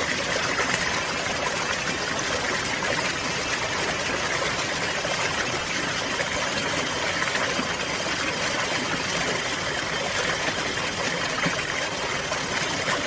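Steady running water, an even rushing and trickling like a flowing stream, with no change in level.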